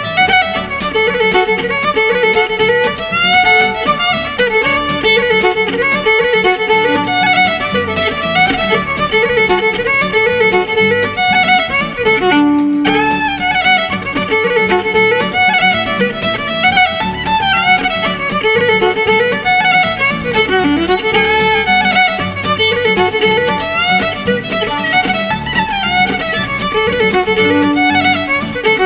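Fiddle playing a fast Irish dance tune in quick running notes, with a brief held note about halfway through.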